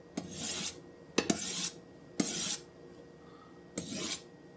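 Knife blade stroked along a DMT extra-fine diamond honing steel: four short hissing strokes about a second apart, each starting with a light metallic click.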